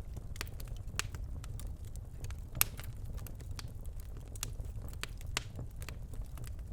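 Birch logs burning in a fireplace: a steady low rumble of the fire with irregular crackles and pops, the loudest pop a little over two and a half seconds in.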